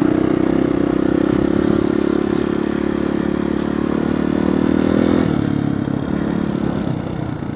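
Dirt bike engine running steadily under throttle while pulling through soft sand; about five seconds in the pitch drops and it gets quieter as the throttle eases off.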